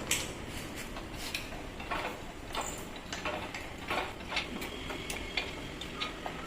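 Irregular small clicks and clinks of hard tool and drill parts being handled and set down, several ticks a second at uneven spacing over a steady hiss.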